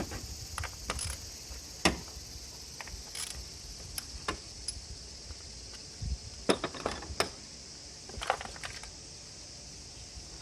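Irregular metallic clinks and taps of hand tools and parts being handled during a spark plug change.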